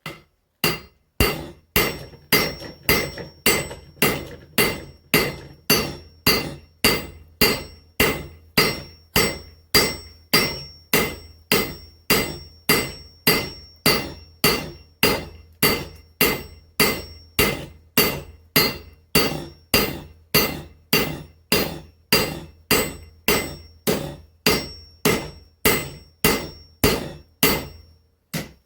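Hand hammer striking hot steel on an anvil in a steady rhythm of about two blows a second, each blow ringing briefly; the work is hand-forging the steel of an axe.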